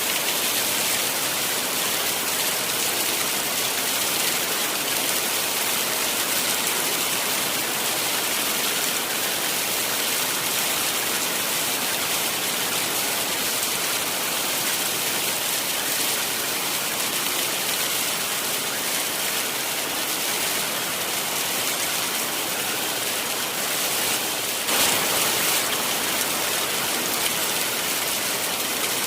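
Heavy rain falling steadily, a dense even hiss, with a brief louder patch near the end.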